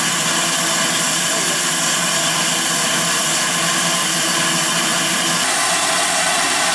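Steam locomotive letting off steam: a loud, steady hiss of escaping steam.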